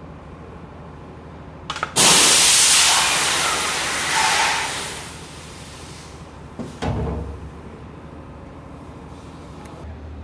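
A loud hiss of escaping air lasting about three seconds, starting with a click and fading out. About two seconds later comes a short clunk with a brief lower burst of hiss.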